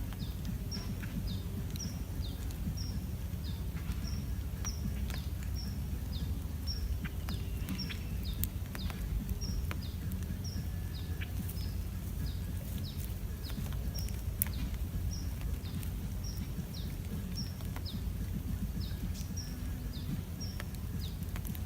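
Outdoor field recording: a steady low rumbling noise, with a bird repeating short, high, falling chirps about twice a second, and a few scattered clicks.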